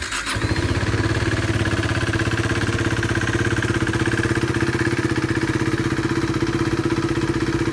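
2016 KTM 390 Duke's 373cc single-cylinder engine catching right at the start, then idling steadily with an even, rapid pulse.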